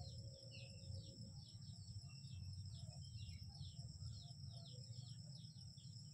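Faint bird chirping: short falling notes repeated about three times a second, over a steady high-pitched drone of insects and a low rumble.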